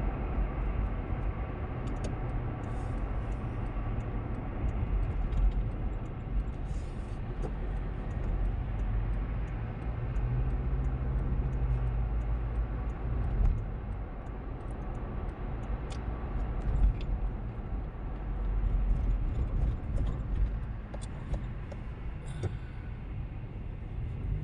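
Steady engine and road noise heard from inside a moving car, a continuous low rumble.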